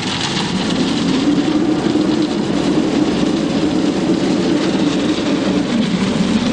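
EP3.5 self-loading concrete mixer truck running steadily at work: a loud, continuous low engine drone with a noisy clatter over it, swelling a little about a second in.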